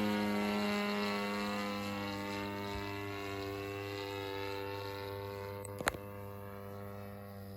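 DLE 30 single-cylinder two-stroke petrol engine of an RC aerobatic model plane running steadily in flight, its drone slowly fading as the plane draws away. A single sharp click about six seconds in.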